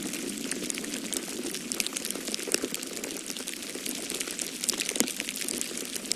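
Wood fire crackling in a fireplace, with many small irregular pops and snaps, the sharpest about five seconds in, over a steady rushing noise of snowstorm wind.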